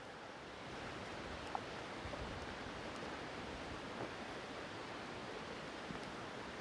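Steady rush of running creek water, growing a little louder after the first second, with a few faint clicks.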